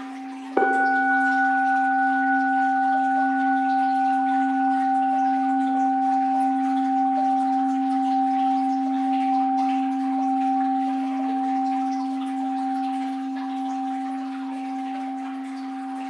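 An orin (Japanese Buddhist bowl bell) struck once about half a second in. It rings with a low hum and several higher overtones that slowly fade, with the previous ring still sounding under the strike.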